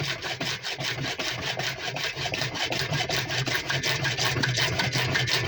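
PVC water pipe being cut, a fast, even rasping of about eight strokes a second.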